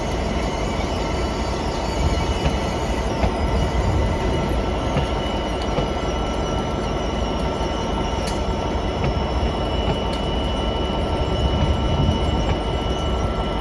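A train running past on the main line: a steady rumble of wheels on rail with a thin, steady high-pitched whine over it.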